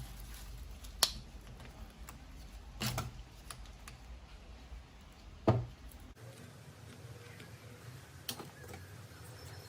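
A few separate sharp clicks and knocks of metal and plastic parts or tools being handled during the strip-down of a rotary hammer, over a low hum that cuts off abruptly about six seconds in.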